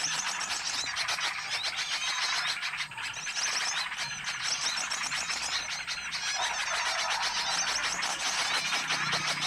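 Bird-lure recording: a dense, busy chorus of many small birds chirping and twittering at once, steady throughout.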